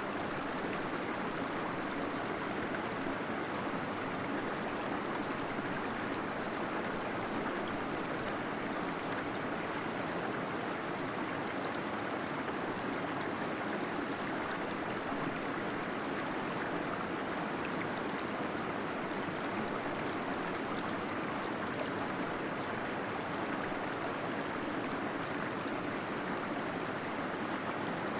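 Waterfall in a cave, water splashing and flowing in a steady, unbroken rush.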